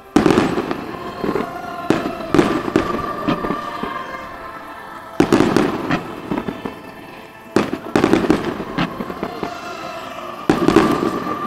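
Aerial fireworks shells bursting: several loud bangs a couple of seconds apart, each fading out in a rumbling, crackling tail.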